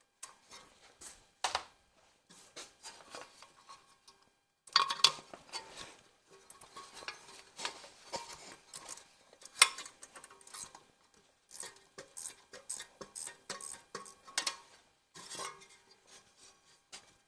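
Irregular metallic clinks and knocks of wrenches, sockets and loose bolts against engine parts during the teardown of a Ford 351 Windsor V8, with short pauses between bursts.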